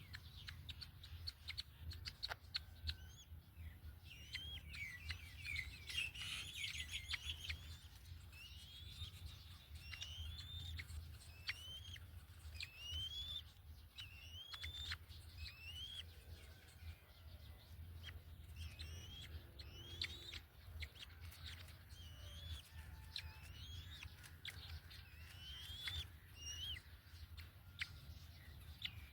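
A bird calling over and over: short rising whistles, about one a second, with scattered sharp clicks and a steady low rumble underneath.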